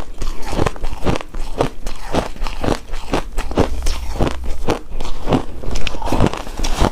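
Close-miked chewing and crunching of shaved snow ice, a steady run of crisp icy crunches at about three a second.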